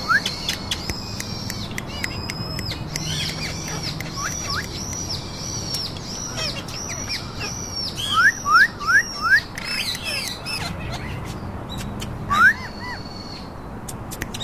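Pet parakeets calling: a steady series of short, high, arched whistles about two a second, with louder quick rising chirps in a burst about two-thirds of the way through and once more near the end.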